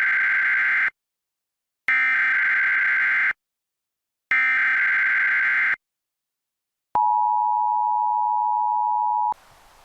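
Emergency Alert System–style bulletin tones: three identical harsh electronic data bursts, each about a second and a half with short silences between, then a steady two-tone alert tone about 7 s in that holds for roughly two and a half seconds.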